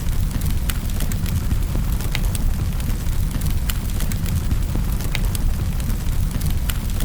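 Wood fire burning in a fireplace: a steady low rumble with sharp crackles and pops scattered irregularly, several a second.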